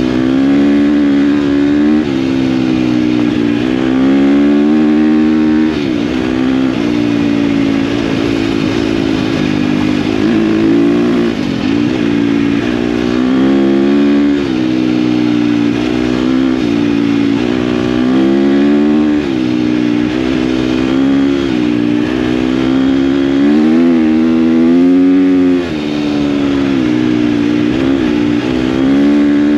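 KTM dirt bike engine running under way, its pitch rising and falling over and over as the throttle is opened and closed, with a sharp drop in pitch and loudness about 25 seconds in.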